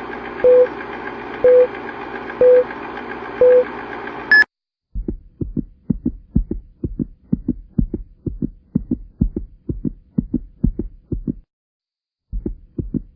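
Four short beeps, one a second, over a steady hiss, then a heartbeat sound effect: regular low thumps about three a second, with a brief pause near the end.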